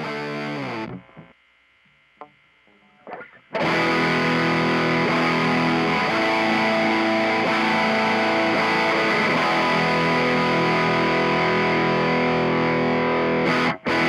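Electric guitar through a Mooer Black Secret distortion pedal, a Proco Rat clone. A short run of distorted notes breaks off about a second in and leaves a pause; then, about three and a half seconds in, loud, sustained distorted chords ring on.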